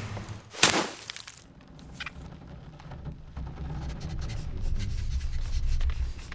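A sudden loud crash-like impact about half a second in, followed by a few fainter clicks and a low rumble that swells toward the end.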